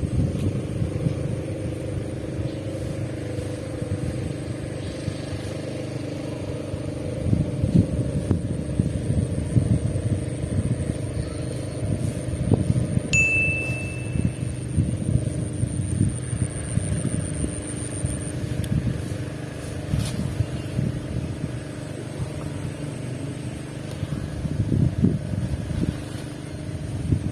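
Strong wind buffeting the microphone in uneven gusts of low rumble, over a steady low hum.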